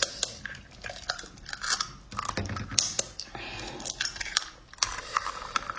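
A person eating spicy instant noodles: chewing, with many sharp wet clicks and smacks of the mouth.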